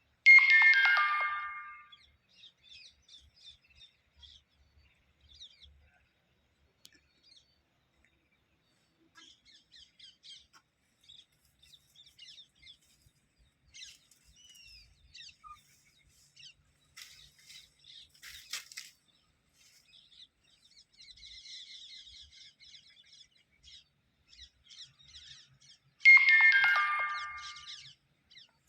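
A short electronic chime of stepped notes falling in pitch, like a ringtone, sounds twice: once at the start and again near the end. Between the two, faint high bird chirps come and go.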